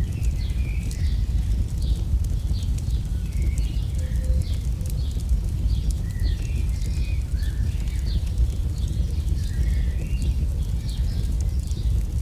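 AI-generated campfire crackle: irregular sharp pops and ticks over a steady low rumble, with frequent short high chirps scattered through it.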